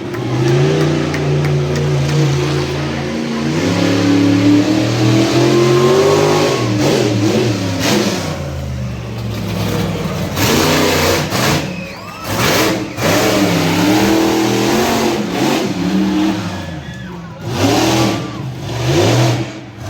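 Monster truck engine revving hard, its pitch climbing over the first several seconds, then dropping and rising again in repeated surges. Several short, loud bursts of noise come through in the second half.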